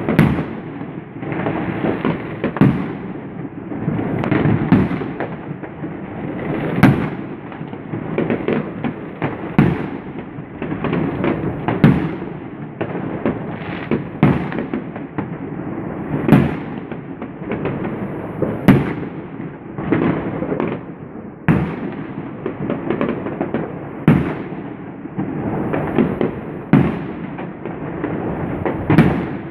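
Consumer fireworks battery (cake) firing aerial shells that burst in the sky with sharp bangs about every two to three seconds, over a continuous crackle and rumble of fireworks.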